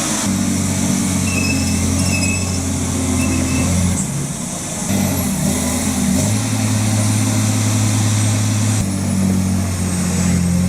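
Diesel engine of a loaded logging truck running hard downhill at full throttle. Its pitch holds steady, dips briefly about four seconds in and settles at a new, higher pitch about six seconds in. Faint short high squeaks sound in the first few seconds.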